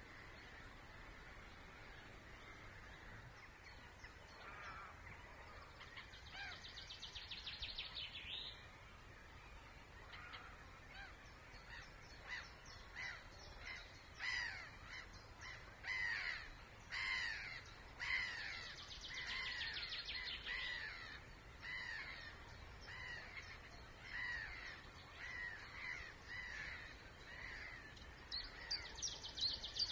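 Wild birds calling: one bird gives a short, harsh, falling call over and over, about once a second, through the second half. A very fast, high trill breaks in three times over a faint steady background hum.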